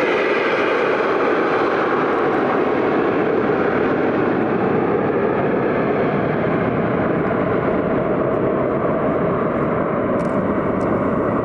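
Aircraft engine noise, loud and steady, its higher hiss slowly dulling through the second half.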